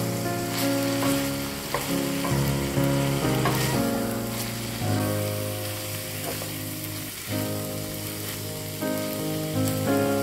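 Ground beef and sliced mushrooms sizzling in a frying pan while a wooden spatula stirs them, with a few short knocks of the spatula against the pan. Background music plays underneath.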